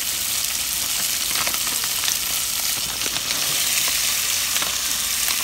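Beyond Meat plant-based crumbles frying in hot olive oil in a stainless steel pot: a steady sizzle with scattered small pops.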